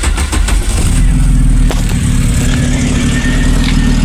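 Cold start of a VW Golf/Polo petrol engine with MP9 fuel injection: it catches with a few uneven firings and then settles into a steady idle from about a second in.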